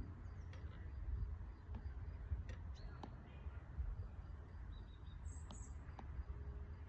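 Outdoor ambience: a steady low rumble with a few short bird chirps, the clearest a little after the middle, and a handful of small sharp clicks scattered through it.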